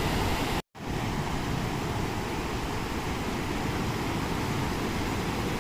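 Steady rush of ocean surf breaking on the beach. It cuts out completely for a split second near the start.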